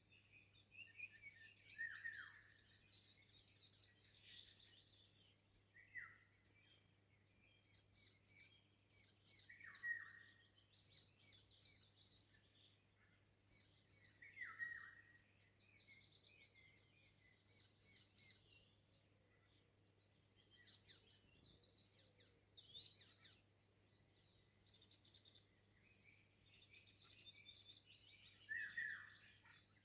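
Several wild birds singing in woodland: a falling whistled phrase comes back every four seconds or so, between quick runs of high chirps.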